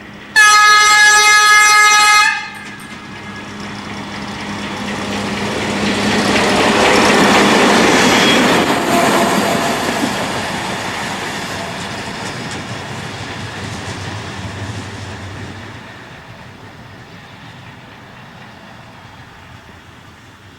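V100 diesel locomotive sounds one loud horn blast of about two seconds, then runs past with its train of wagons, the engine and wheel noise swelling and fading away.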